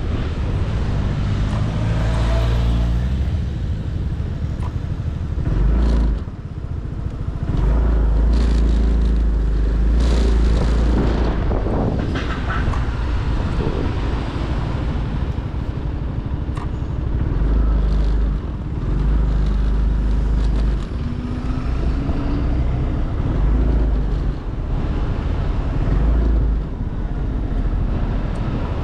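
A motorcycle being ridden, heard from on the bike: the engine running under a heavy low rumble of wind buffeting the microphone in repeated gusts. About three-quarters of the way in, the engine note rises as it revs up.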